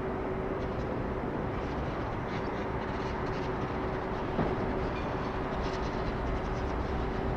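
Steady rumble of jet airliner engines, with a constant hum and one faint click about four seconds in.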